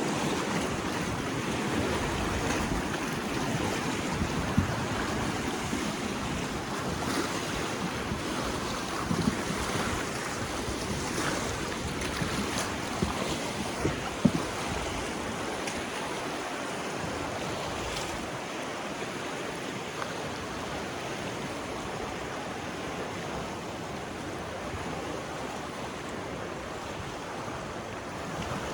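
Colorado River water rushing and lapping around a raft, with wind on the microphone and a few short knocks.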